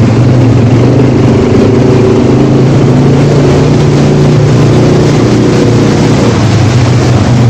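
ATV (quad bike) engine running loud and close at a steady speed, its low hum holding pitch with only slight changes.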